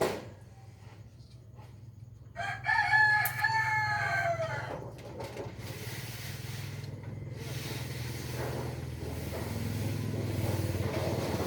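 A rooster crowing once for about two and a half seconds, starting a little over two seconds in, over a steady low hum.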